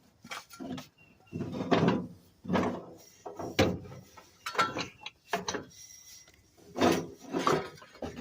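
Irregular knocks, clanks and scrapes of metal bars and tools being worked against a truck engine, about ten separate strikes and scrapes spread unevenly.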